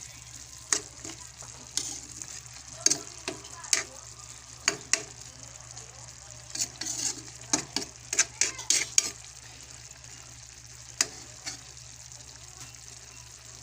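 Chicken feet adobo sizzling in a pan while it is stirred, with irregular sharp clacks of the utensil against the pan, most of them bunched about seven to nine seconds in.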